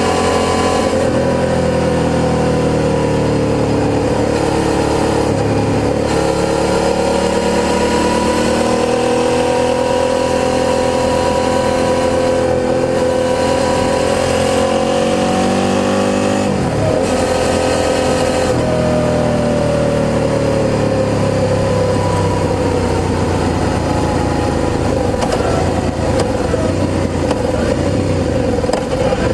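Suzuki SV650's 90-degree V-twin running through a G&G aftermarket exhaust while riding, revs rising and falling as the rider accelerates, shifts and rolls off, with a sharp drop and pick-up of revs partway through.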